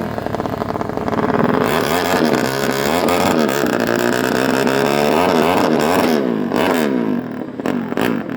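Several motorcycle engines revving at a drag strip, their pitches rising and falling against each other, loudest from about two to six seconds in.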